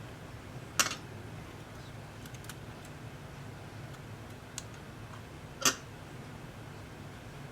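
Two sharp clicks of small tools or parts being handled during the tablet repair, one a little under a second in and one near six seconds in, with a few fainter ticks between, over a low steady hum.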